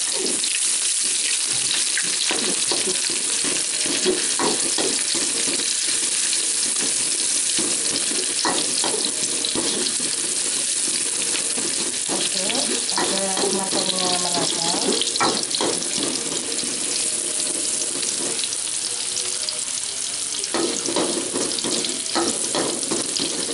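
Sliced shallots sizzling in hot oil in a wok, with a spatula scraping and knocking against the metal pan as they are stirred. The sizzle is a steady hiss throughout.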